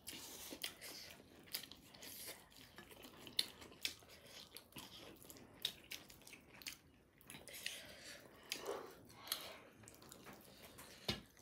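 Faint chewing and eating mouth sounds: irregular soft smacks and clicks of people eating spicy chicken wings and noodles.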